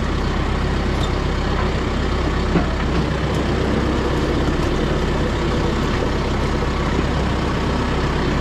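Kubota M6060 tractor's diesel engine running steadily, with one short knock about two and a half seconds in.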